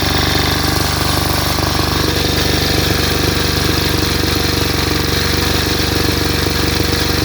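Kirloskar 5 kVA generator's high-speed engine running steadily with a loud, even clatter.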